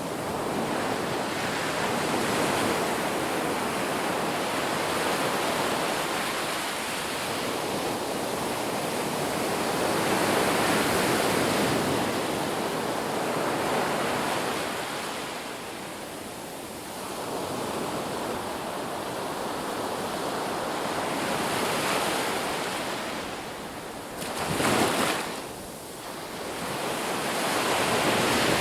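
Ocean surf washing onto a beach, its hiss swelling and easing in slow waves, with one short louder surge near the end.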